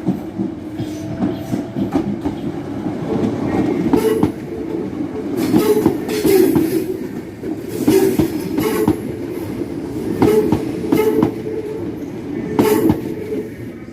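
Train rolling slowly through a station, a steady low rumble with its wheels clacking over rail joints in pairs every couple of seconds.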